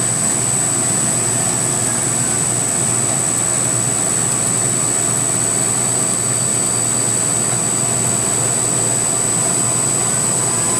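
Belt-drive CNC milling machine running a cut: a steady whir of the spindle and cutter, with a constant high-pitched whine over it.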